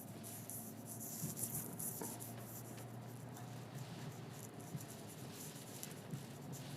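Quiet car-cabin noise while driving in the rain: a low steady hum with light, irregular pattering and ticking of raindrops on the car.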